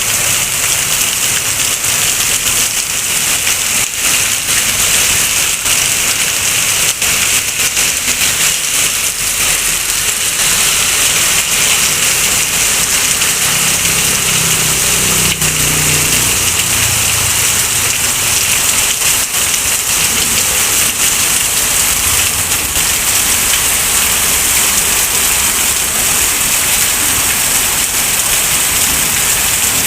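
Heavy rain falling and pattering steadily, with many sharp drop hits. A low rumble swells and fades about halfway through.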